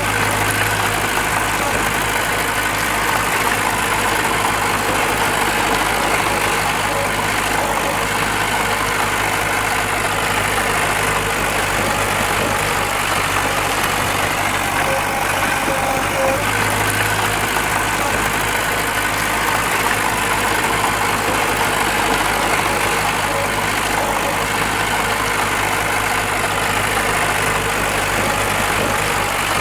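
Diesel engine of heavy earthmoving machinery running steadily at an even level.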